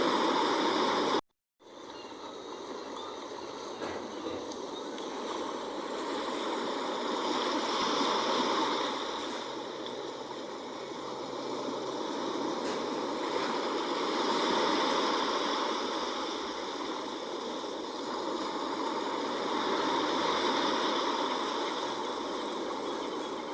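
Sea waves washing in, a continuous rushing of water that swells and fades every six seconds or so. The sound cuts out completely for a moment about a second in.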